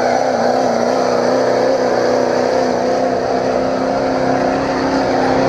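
Chevrolet pulling truck's diesel engine running loud at high revs, its pitch held nearly steady with slight wavering.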